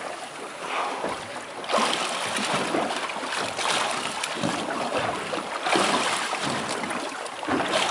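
Wind on the microphone and sea water washing around a small boat, swelling in uneven surges every couple of seconds.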